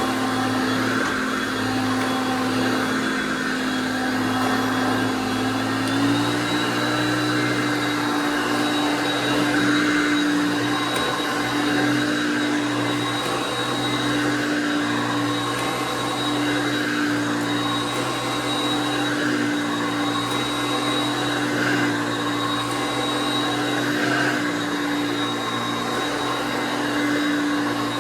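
1978 Hoover Concept One U3101 upright vacuum cleaner running steadily, a motor hum with a high whine over it. The pitch steps up slightly about six seconds in and then holds.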